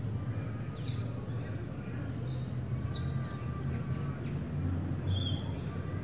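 Birds chirping in short, quick downward-sweeping notes, several times, over a steady low hum.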